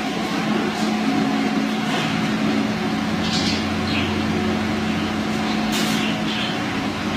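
A steady machine hum with a constant low drone, with a few short, high sounds about three and a half and six seconds in.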